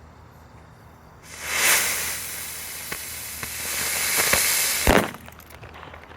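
Crazy Bee ground-spinning helicopter firework, burning without its wings, gives a loud hiss for about three and a half seconds with a few small crackles. It ends in one sharp bang about five seconds in.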